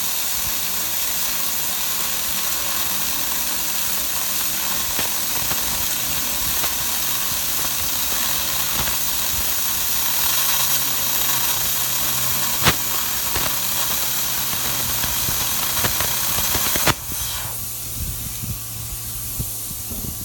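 Everlast 60-amp plasma cutter cutting through the steel wall of a 275-gallon oil drum: a steady loud hiss with scattered crackles. The arc stops suddenly about 17 seconds in, leaving a softer air hiss and the steady hum of the shop air compressor.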